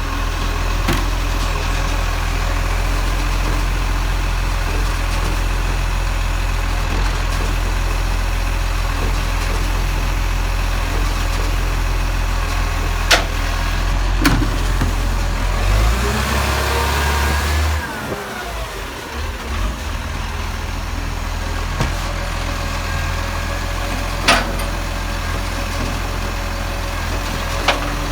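Garbage truck's engine running steadily, with a few sharp knocks. About 16 s in a rising whine sounds for a second or two, then the low engine rumble drops away and runs on more quietly.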